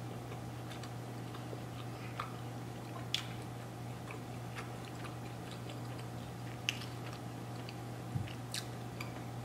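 A person chewing a mouthful of soft pretzel-wrapped hot dog with the mouth closed: faint, scattered small clicks and soft crunches over a steady low hum.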